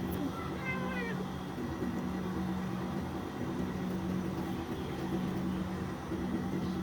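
A cat meows once, briefly, about a second in, over a steady low hum.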